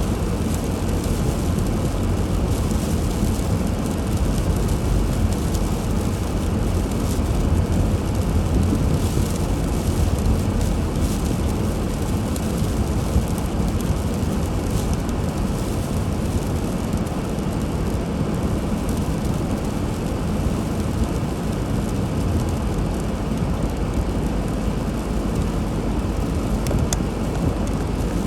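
A car driving, making a steady low road-and-engine rumble that holds even throughout, with faint ticks scattered through it.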